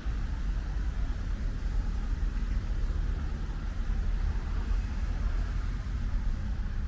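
Steady low rumble of road traffic with a light hiss of rain above it.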